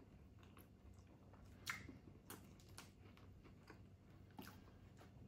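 Near silence with a few faint, scattered clicks: the mouth sounds of someone chewing a mouthful of cheeseburger.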